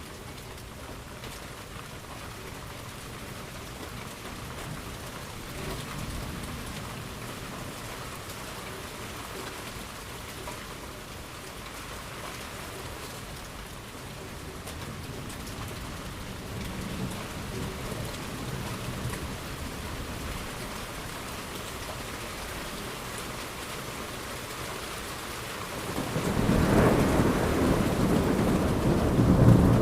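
Thunderstorm: steady rain falling, with distant thunder rumbling low in the background. A few seconds before the end, a much louder, close thunder rumble breaks in and keeps rolling.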